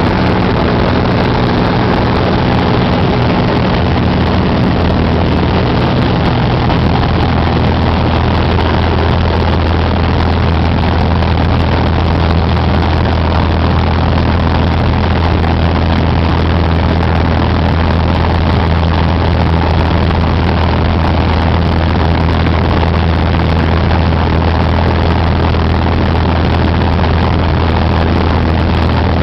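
Cessna 188 AgTruck's flat-six piston engine and propeller droning steadily at a constant loud level, a deep hum with a steady rush over it; the pitch shifts slightly about seven seconds in.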